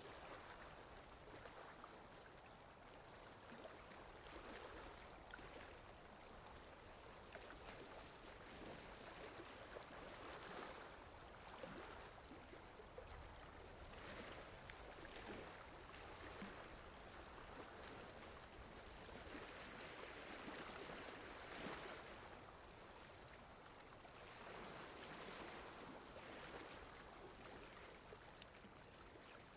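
Rain falling steadily, a faint even hiss that swells and eases every few seconds.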